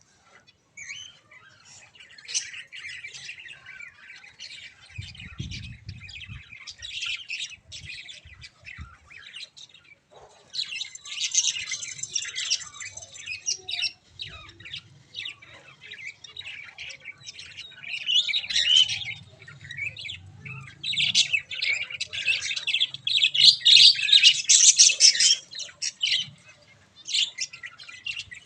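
Budgerigars chattering with rapid chirps and squawks, swelling into louder spells of busy calling around the middle and toward the end. A few low thumps come about five seconds in.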